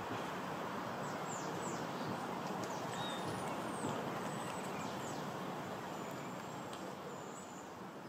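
Steady outdoor background rush with several faint, thin, high bird chirps that slide down in pitch, scattered through.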